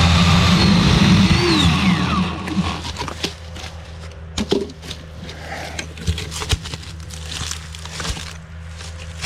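Chainsaw running at high revs, dropping to idle about two seconds in, then idling with scattered sharp clicks and knocks.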